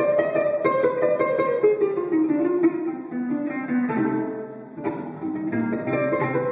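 Plucked strings playing a fast run of notes that steps down in pitch, with a new strong attack about five seconds in.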